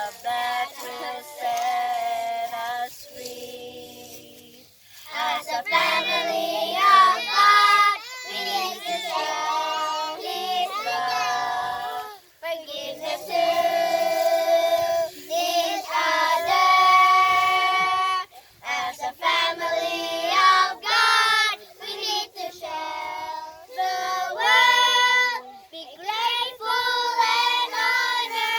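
Children singing a song, holding and gliding between notes, with a short pause about four seconds in.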